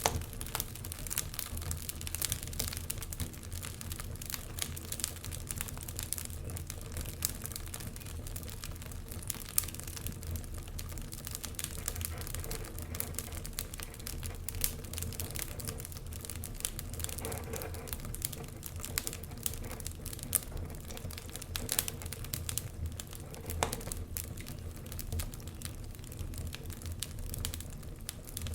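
Wood fire burning in a fireplace, crackling with many small irregular pops and snaps, over a low steady rumble.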